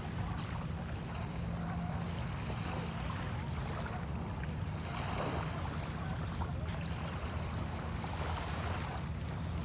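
Bay shore ambience: small waves washing in with wind and a steady low rumble, the wash swelling about halfway through and again near the end.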